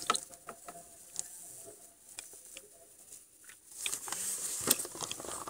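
Light scattered clicks and taps with some rustling, like small plastic toy figures being handled.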